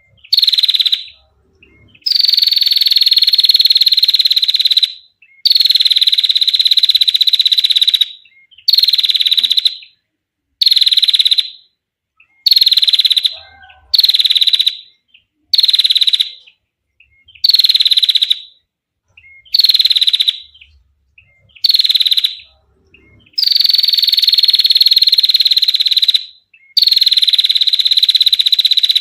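Female prinia (prenjak) giving long, dry, rapid trills, one after another with short pauses between, each trill high-pitched and sliding slightly down in pitch.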